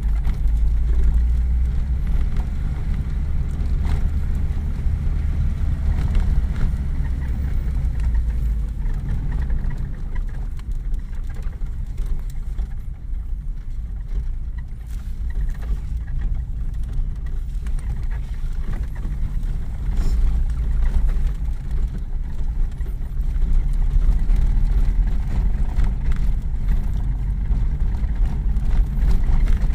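An old vehicle's engine running steadily under way, heard from inside the cab on a rough dirt road, with scattered knocks and rattles. The engine is a little quieter in the middle stretch and loudest again in the last few seconds.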